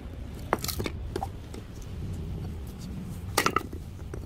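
Sharp knocks and clatters in two short clusters, one about half a second in and a louder one about three and a half seconds in, over a steady low rumble.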